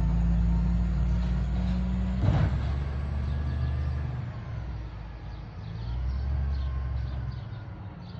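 Crane Carrier LET2 garbage truck's engine running with a steady low drone, with one sharp clunk about two seconds in; the engine sound eases off around the middle and builds again near the end.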